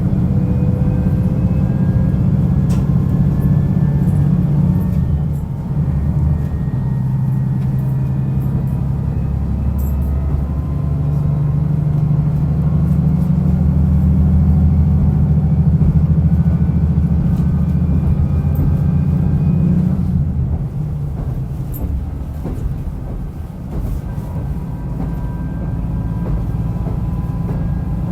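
Diesel railcar running along the line, its engine working steadily under power with faint rising whines above it. The engine note drops back about twenty seconds in.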